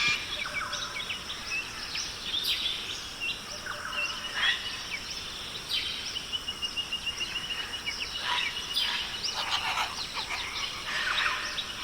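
Rainforest ambience: assorted bird chirps and whistles over a light hiss, with a fast, high trill in the middle.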